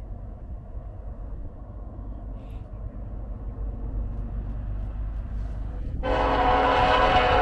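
Low rumble, then about six seconds in the air horn of an approaching diesel locomotive, Norfolk Southern heritage unit NS 1065, sounds one loud blast, a chord of several tones.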